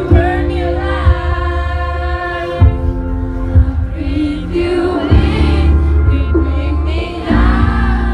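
Female vocal group singing a song live in layered harmony, over a low bass with a beat roughly once a second.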